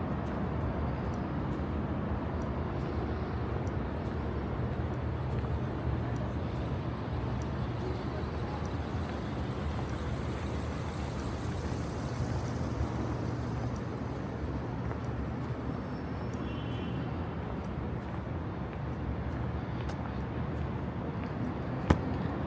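Steady city street ambience: a low rumble of traffic and general urban noise, with a single sharp click near the end.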